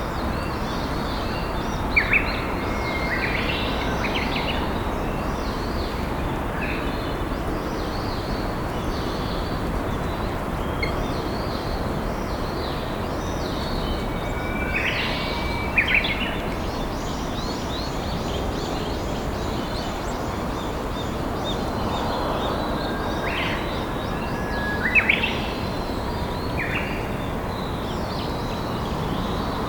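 Steady rush of a flowing river with birds singing over it. A Japanese bush warbler sings three times, each song a held whistle followed by a quick flourish, and other small birds chirp faintly.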